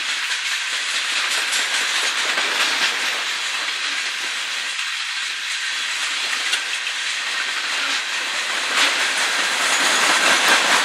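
Freight train's coal hopper cars rolling past: a steady hissing rush of steel wheels on the rails, with scattered sharp clicks that come more often in the last few seconds.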